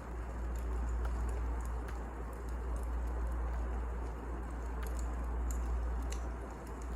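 Burning firewood: a steady low rumble with scattered sharp crackles and pops.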